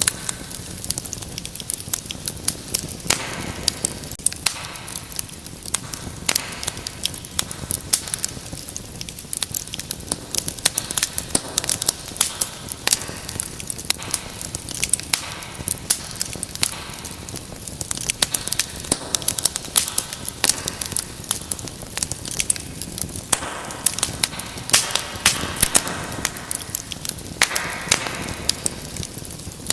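Wood fire burning in a fireplace, crackling and popping irregularly over a low steady rumble of flames.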